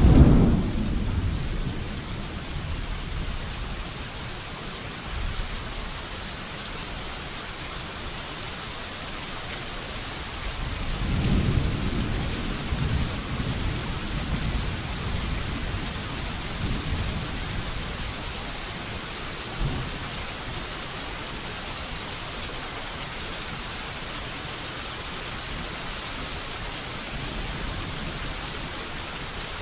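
Steady rain falling with thunder: a loud thunderclap right at the start that fades away over a couple of seconds, and a softer rolling rumble about eleven seconds in that lasts a few seconds.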